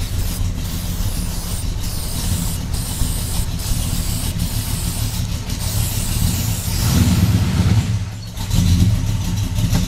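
Classic Pontiac's engine running at idle through its exhaust, a steady low rumble that swells louder about seven seconds in and again near the end.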